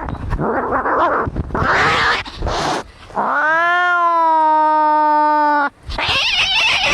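Cats fighting: harsh, noisy cries, then one long drawn-out caterwaul about three seconds in that rises and then holds for over two seconds, followed by more harsh cries.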